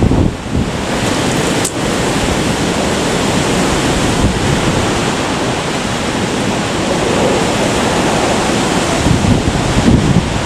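Typhoon-strength wind blowing hard in a continuous rush and buffeting the microphone, with heavier gusts at the start and again near the end.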